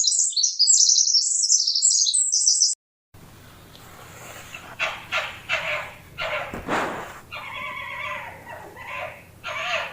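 A bird chirping rapidly in dense high-pitched trills, cut off suddenly under three seconds in. After a moment's silence, another animal gives a series of short, repeated calls over background noise.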